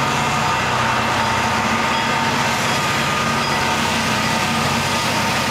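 Freight train's diesel locomotives passing, engines running steadily over the continuous rumble of wheels on rails.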